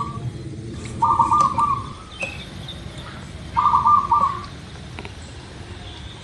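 Zebra dove (perkutut) cooing: two short, rapid stuttering coo phrases, about a second in and again about three and a half seconds in.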